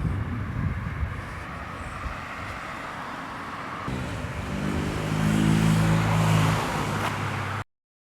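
A motor vehicle's engine hum builds about halfway through, holds, then eases off, over street noise and wind rumble on the microphone. The audio cuts off suddenly just before the end.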